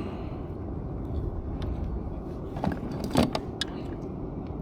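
Several sharp clicks and knocks over a steady low rumble, the loudest a little past three seconds in: fishing gear being handled aboard a kayak.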